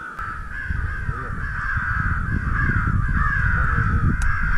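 Crows cawing in a steady, unbroken chorus of repeated caws, with a low rumble underneath.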